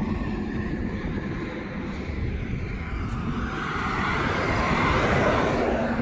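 Interstate traffic passing on the highway, with tyre and engine rumble. A passing vehicle's rushing noise swells louder over the last couple of seconds as it approaches.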